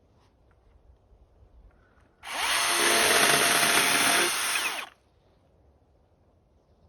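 A power tool running in one burst of about two and a half seconds, starting and stopping abruptly.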